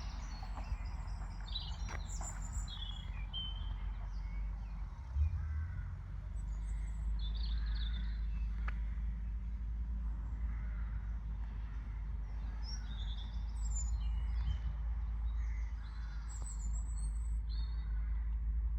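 Small birds chirping and singing in short scattered calls, over a steady low rumble.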